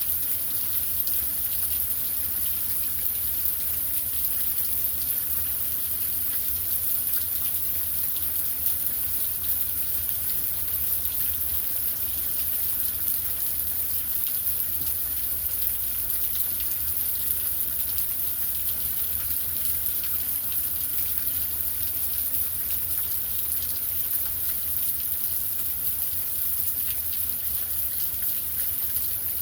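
Heavy rain falling steadily, an even hiss of the downpour.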